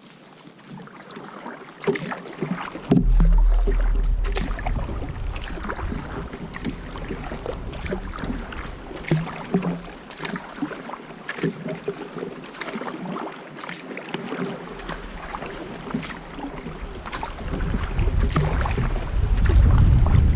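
Kayak paddling: paddle blades dipping and splashing in lake water in irregular strokes, with wind rumbling on the microphone, heavier near the end.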